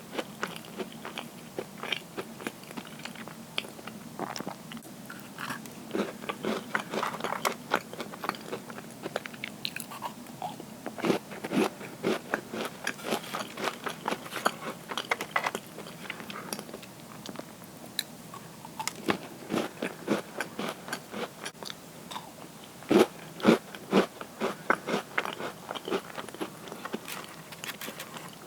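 Crisp cookies bitten and chewed close to the microphone: dense crunching and crackling, with the loudest bites near the end.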